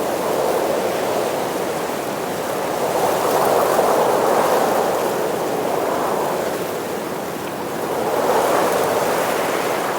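Rain falling steadily, a dense even hiss that swells louder twice, about three seconds in and again near the end.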